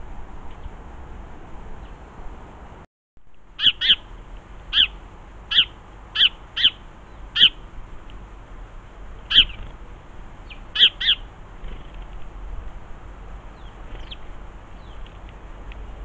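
A bird calling loudly: about ten short, harsh calls in irregular succession starting a few seconds in, some coming in quick pairs, over a steady background hum.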